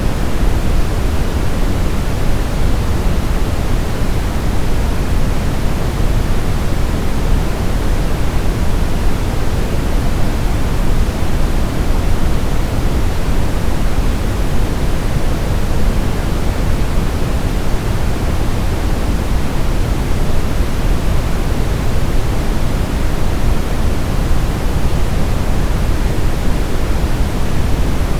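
Steady, unchanging white noise for baby sleep: an even hiss with no rhythm or breaks, weighted toward the low end like pink noise.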